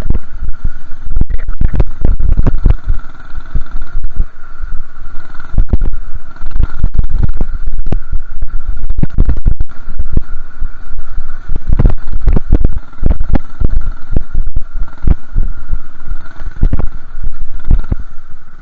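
Heavy wind buffeting and jolts pounding the microphone during a minibike ride over rough ground, coming as irregular low thumps, with a steady high whine underneath.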